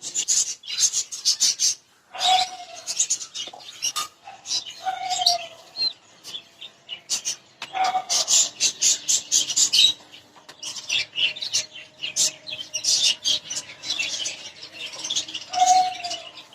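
A flock of lovebirds chirping and chattering in rapid, shrill bursts, with a few short, lower calls in between.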